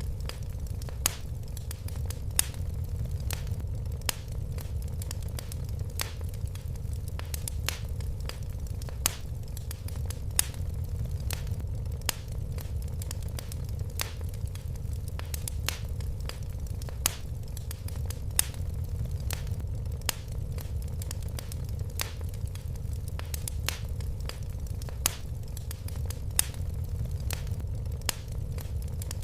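Fire crackling in a fireplace: sharp, irregular pops a few times a second over a steady low rumble.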